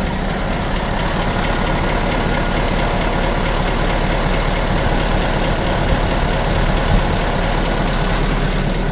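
Hino F17D diesel engine idling steadily, running after a full lapping of its valves.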